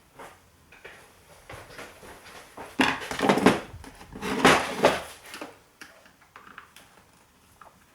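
Metal hand tools and screwdriver bits clattering and scraping, in two louder bursts about three and four and a half seconds in, as a screwdriver bit is changed and set to a screw.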